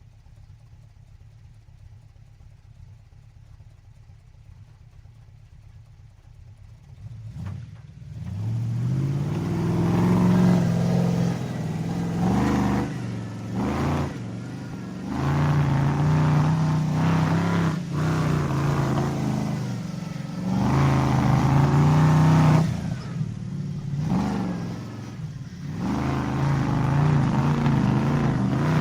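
Monster truck engine idling with a low rumble, then about eight seconds in it revs up and drives, its pitch repeatedly rising and falling as the throttle opens and briefly eases off.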